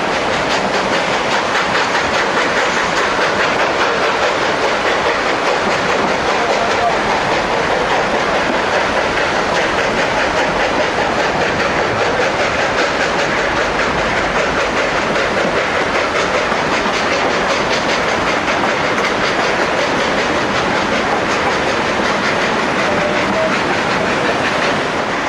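Durango & Silverton narrow-gauge train under way: wheels running steadily over the rails with a continuous clatter and rattle.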